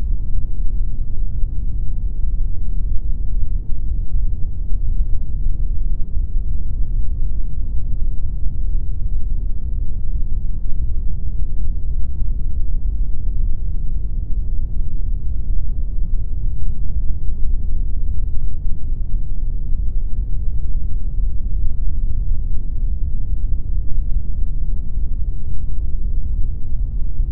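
Steady generated pink noise: an even, unchanging rush with most of its energy in the low end.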